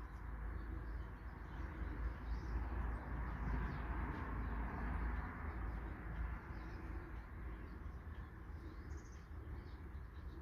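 Small wild birds chirping faintly and intermittently, over a steady low rumble and outdoor hiss.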